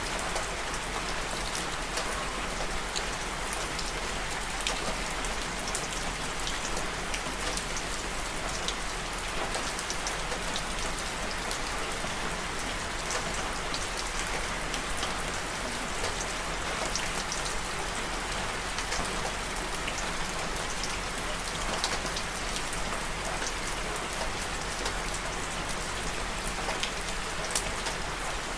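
Steady rain falling on a surface, a constant hiss dotted with the ticks of individual drops.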